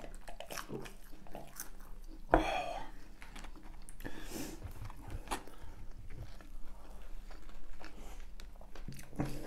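Close-miked chewing and biting of McDonald's chicken nuggets and a burger, with small wet mouth clicks and soft crunches. There is one brief louder noise about two and a half seconds in.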